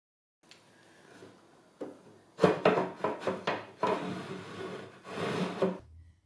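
Wooden knocks and rubbing: a string of sharp taps and scrapes, starting about two seconds in and stopping just before the end.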